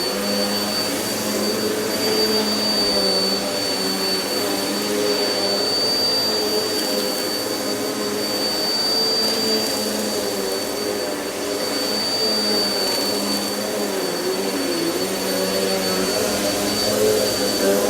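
Vacuum cleaner running steadily, with a constant high-pitched whine over a motor hum that wavers slightly in pitch as it is pushed over the floor.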